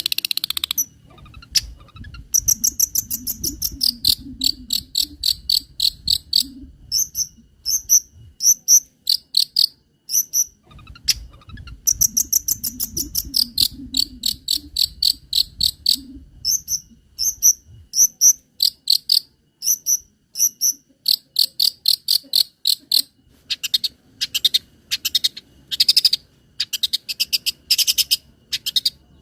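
Shrill, cricket-like chirping: quick trains of high-pitched pulses repeated in short groups with brief gaps, the pitch stepping between two levels. It is played as 'isian' (song-filler) material for training a long-tailed shrike.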